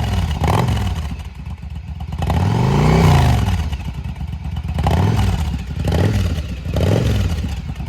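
2005 Yamaha V-Star 1100 Custom's air-cooled V-twin, breathing through Cobra Slashcut slip-on mufflers, revved in a string of about five throttle blips while still cold, the longest and highest about three seconds in. The exhaust is loud.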